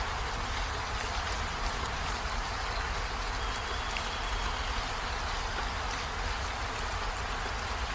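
Waterfall: a steady, even rush of falling water with a low rumble underneath.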